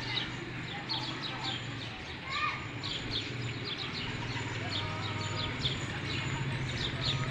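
Birds chirping: many short, quick chirps repeating over a low steady hum.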